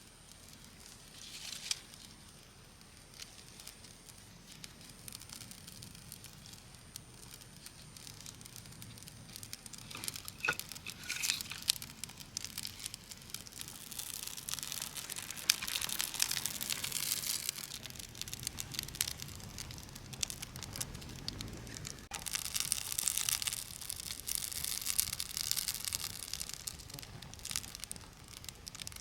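Campfire burning: kindling crackling and snapping with a hiss of flames, growing louder about halfway through and again near the end.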